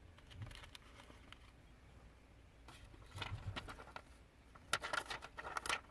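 Faint rustling and crinkling of paper as stickers are peeled from a sticker sheet and pressed onto paper-wrapped candy bars. There is a short rustle about three seconds in and a quick run of sharper crackles and clicks near the end.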